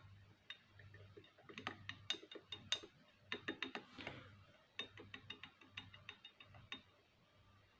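Faint, irregular metallic clicking of the Izh Planeta 5's connecting rod being rocked up and down on its crankshaft journal, a check for radial play. It comes in small clusters from about a second and a half in until near the end.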